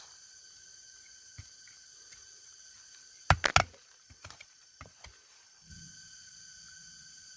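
Steady high buzzing chorus of forest insects, with a quick cluster of loud sharp knocks about three seconds in and a few lighter knocks after. The chorus drops away after the knocks and comes back near the end.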